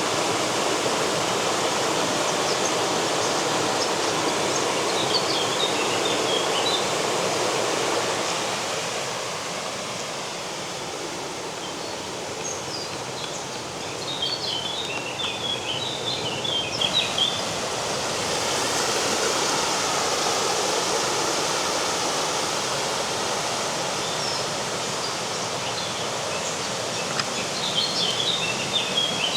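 Steady rush of river water, strongest for the first third and then easing. Small birds twitter in short bursts a few times over it.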